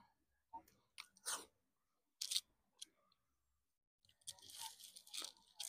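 Faint chewing of a chicken burger, close on a clip-on microphone: a few scattered short mouth clicks and crunches, then a longer spell of chewing about four seconds in.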